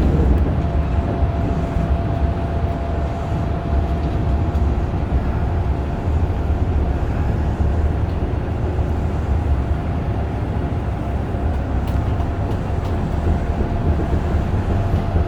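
Running noise heard inside a Kintetsu 8000-series electric train car: a steady low rumble with a thin, steady whine over it.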